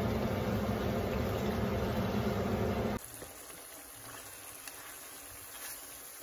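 Chicken in masala sauce frying in an enamelled pan as it is stirred: a loud, dense noise that cuts off abruptly about three seconds in, leaving a much quieter simmer with a few small clicks.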